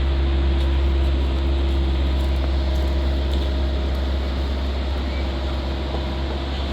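Steady low rumble of city street traffic, with engine hum over a constant background noise.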